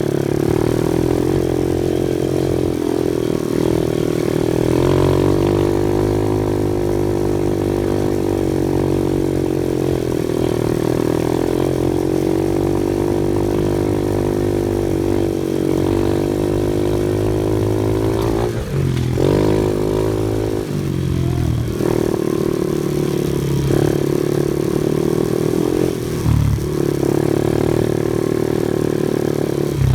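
An off-road vehicle's engine running continuously under changing throttle. Its pitch drops sharply and climbs back several times in the second half.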